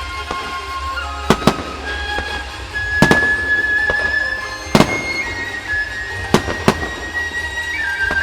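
Firework shells bursting with about six sharp bangs at uneven intervals, over show music with a flute-like melody playing.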